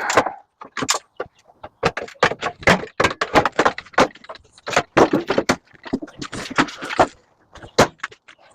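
Irregular metal clanks, knocks and rattles from a scrap microwave oven being pulled apart by hand, in quick bursts with short pauses.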